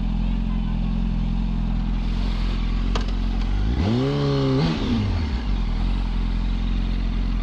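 Motorcycle engine idling steadily, with a sharp click about three seconds in and then a brief throttle rev that rises, holds for a moment and falls back to idle.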